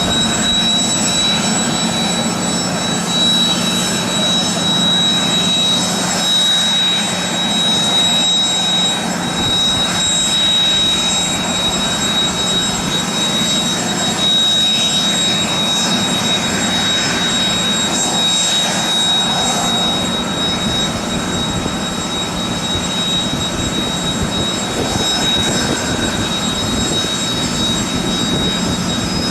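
Kawasaki T-4 trainer's twin F3 turbofan engines running steadily on the ground: a high, steady turbine whine over a continuous rumble.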